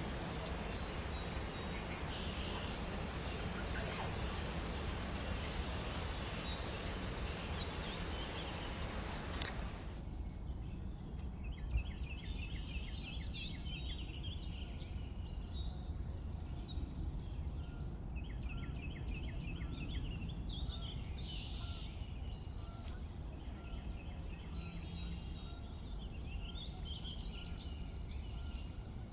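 Small birds chirping in quick high runs of notes. A steady hiss sits under the first part and drops away abruptly about ten seconds in, after which the chirps stand out clearly.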